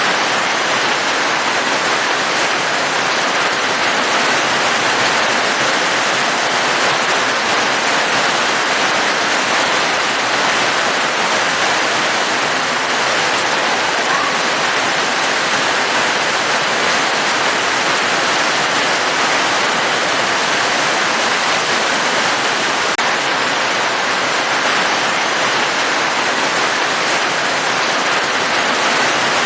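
Steady rain, a dense even hiss with no distinct drops standing out.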